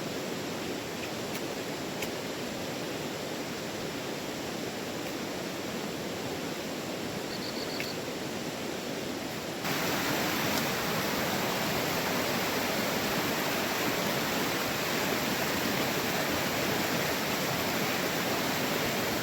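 A fast-flowing river rushing steadily, getting abruptly louder about halfway through.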